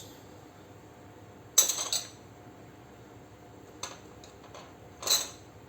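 Kitchen utensils and dishes knocking together: one sharp clatter about a second and a half in, a faint click later, and a short rattle near the end.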